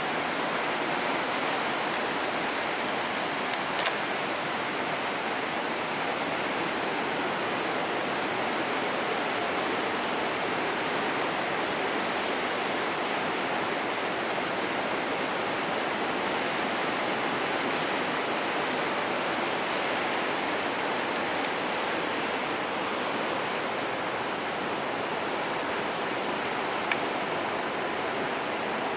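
Steady rushing noise of sea surf breaking on the beach, even throughout, with a couple of faint clicks, one about four seconds in and one near the end.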